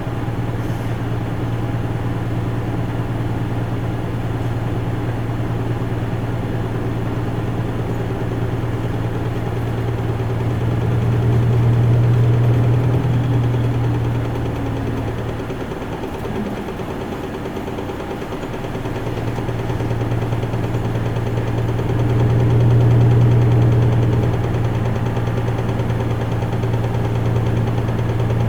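Isuzu Erga Mio city bus's diesel engine running under way, heard from inside the bus: a steady low drone that swells louder twice, about a third of the way in and again near the end, and eases off briefly in the middle.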